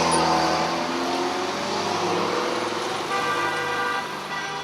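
Road traffic: a motor vehicle's engine running close by on the street, with a steady higher whine joining about three seconds in.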